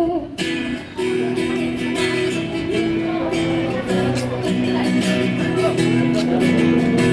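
Acoustic guitar strumming chords in a steady rhythm, starting just after a sung note breaks off.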